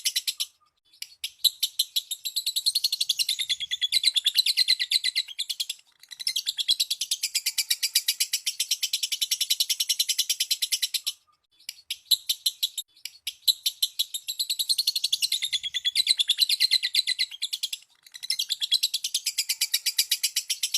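Lovebird chattering in long runs of rapid, shrill chirps, broken by short pauses every five or six seconds. The same passage repeats halfway through, as in a looped lure call played to set other lovebirds singing.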